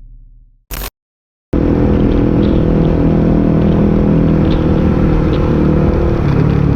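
Motorcycle engine running steadily with road noise. It cuts in about a second and a half in, after the tail of a whooshing intro effect and a brief gap.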